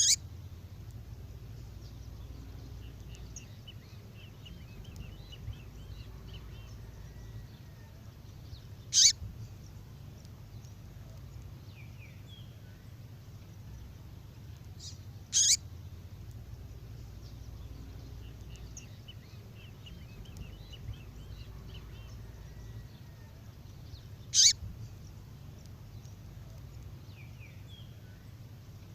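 A songbird's female call played on a loop: a short, sharp, downward-sweeping call four times, with faint twittering in between. A steady low hum runs underneath.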